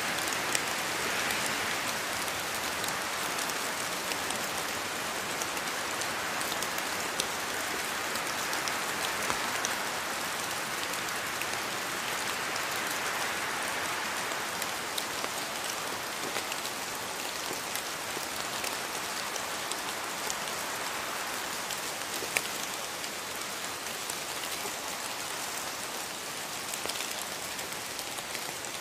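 Steady rain falling in a rainforest, a dense even hiss of rain with scattered sharper drops striking close by.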